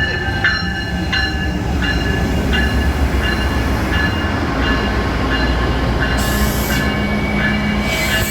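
Freight train rolling past with a heavy low rumble, while a metallic ringing strike repeats about every two-thirds of a second and fades away midway. Near the end a hiss and a steady low hum join in.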